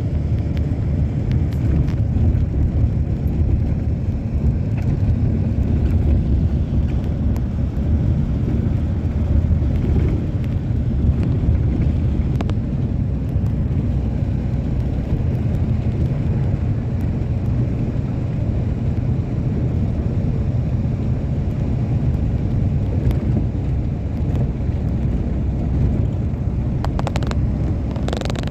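Passenger train running, a steady low rumble of wheels on the rails heard from inside the coach, with a few faint clicks and a short rattle of clicks near the end.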